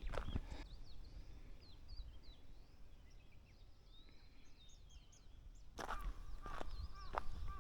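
Footsteps of a walker on a forest trail, stopping after the first half second and starting again about six seconds in. In the quiet between, small birds chirp faintly.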